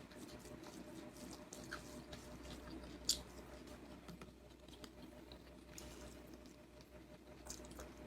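Faint eating sounds: chewing with small wet, sticky clicks of mouth and food, and one sharper click about three seconds in.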